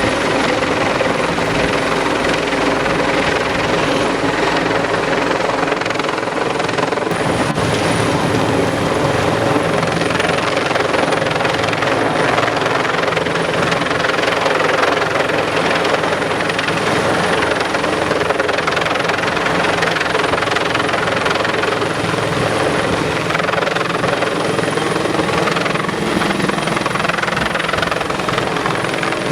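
Heavy-lift helicopter's rotor and engine noise, loud and steady with a constant drone throughout.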